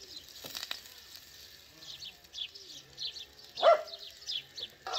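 Small birds chirping over and over, with a couple of light clicks of a metal spoon against a frying pan about half a second in, and one louder, short animal call a little past the middle.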